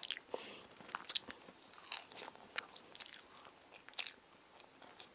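A child chewing a soft sandwich close to the microphone: irregular sharp mouth clicks and smacks, spaced about half a second to a second apart.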